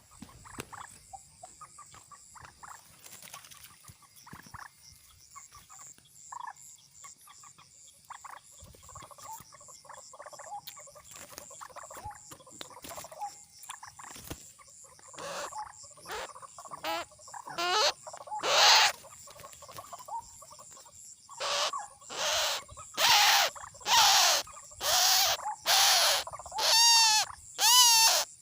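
Repeated harsh calls of a white-breasted waterhen (ruak-ruak), faint and scattered at first, then loud and regular at about one call a second over the last ten seconds. Each call rises and falls in pitch.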